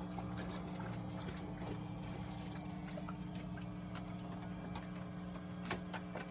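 A steady low hum with many small clicks and crackles scattered over it, and one sharper click about five and a half seconds in.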